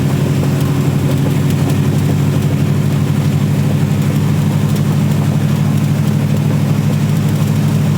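Twin Saab engines of a Mark III Astra van pick-up idling at a steady pitch with an even, pulsing beat.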